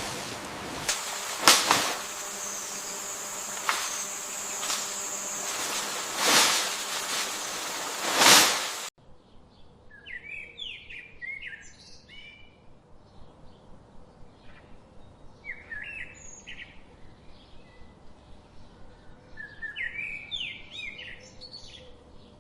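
A loud rushing noise with several sharp cracks cuts off abruptly about nine seconds in. Birds then chirp in short, quick phrases three times over a quiet background with a fast, regular faint ticking.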